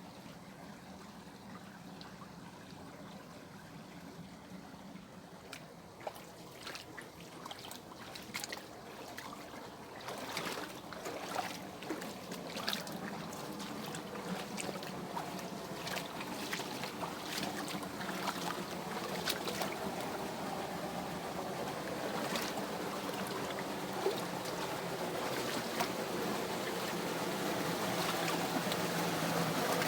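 Water running down a small cascade: a steady rush with frequent splashing and trickling, growing gradually louder.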